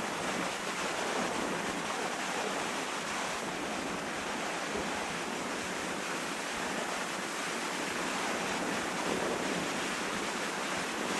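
Waves breaking on a lake shore mixed with loud wind on the microphone: a steady, unbroken rushing noise.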